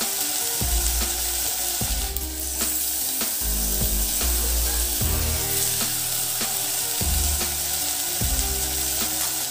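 Wild mushrooms and shallots frying in hot oil in a pan, a steady sizzle with the occasional scrape of stirring, over quiet background music.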